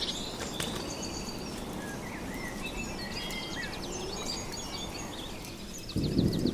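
Small birds chirping and trilling over a steady hiss of outdoor ambience. Near the end, a low rumble of thunder and rain sets in.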